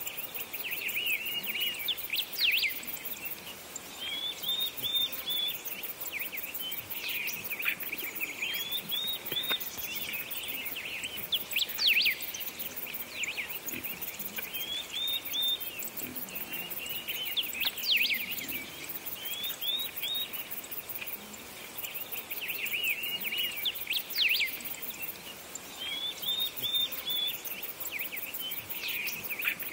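Birds chirping: a short burst of quick chirping notes repeated about every two seconds over a steady hiss.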